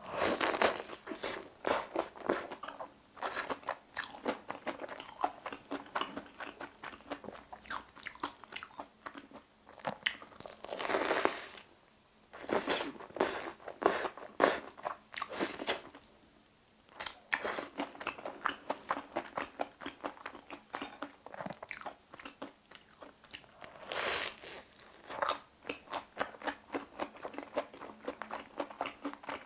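Crunching and chewing, close up, of a deep-fried whole-mozzarella sweet potato hot dog with a crispy cubed crust: many crisp crackles, with a few louder bites and two short pauses.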